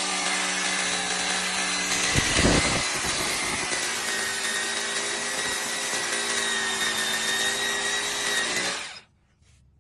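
Hukan K94 rotary hammer drill boring into reinforced concrete, running steadily at full load. It cuts off suddenly about nine seconds in.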